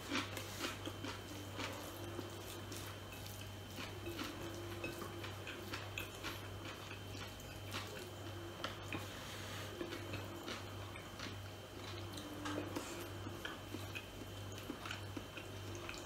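Close-miked eating sounds: chewing with scattered soft mouth clicks and smacks as food is eaten by hand, over a steady low hum.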